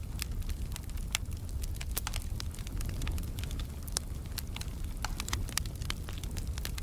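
Wood fire crackling in a fireplace: frequent, irregular sharp pops and snaps over a steady low rumble of the burning logs.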